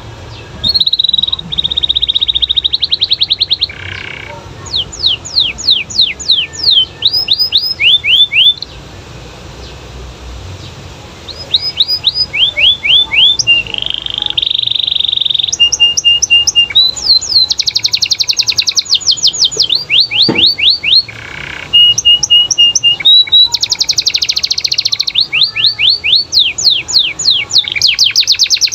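Domestic canary singing: long, rapid trills of repeated notes and fast falling sweeps, with a pause of a couple of seconds about a third of the way in.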